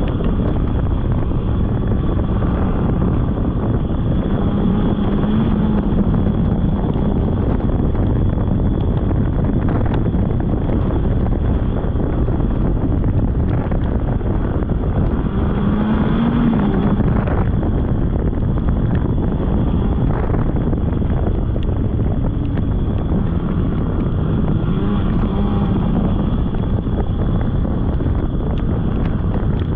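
Polaris snowmobile engine running steadily while riding, with heavy wind noise on the microphone; the engine pitch swells up and back down a few times.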